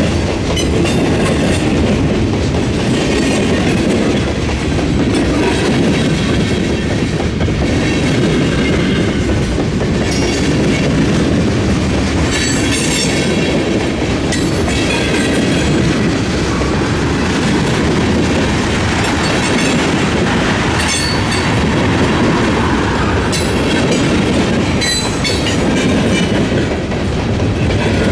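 Freight train rolling past at track level, its cars' wheels clattering steadily over the rail joints and diamond crossing, with brief higher metallic ringing or squealing from the wheels every few seconds.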